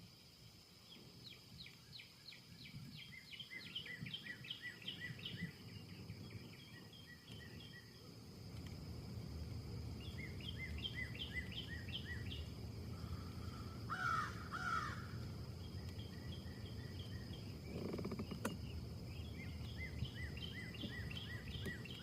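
Wind rushing through trees, gustier from about a third of the way in, with small birds chirping in quick repeated series and one louder bird call about two-thirds of the way through.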